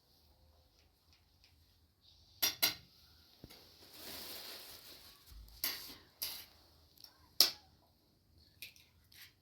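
Kitchenware clattering: a series of sharp clinks of utensils against dishes and pots, the loudest about two and a half, five and a half and seven and a half seconds in, with a short scraping sound around four seconds in.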